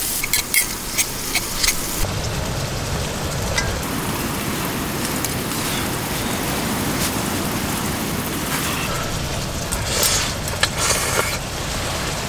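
Octopus, potatoes and cheese sizzling in a cast iron skillet on a gas camping stove, a steady frying hiss. There are sharp clicks of scissors and tongs in the first two seconds and again near the end, and a low rumble joins in after about two seconds.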